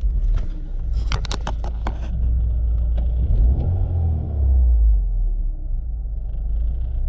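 BMW E36 Compact's M43 four-cylinder engine running during a drive, a steady low rumble in the car. A few sharp clicks or rattles come about a second in, and the engine note rises and then falls again around the middle.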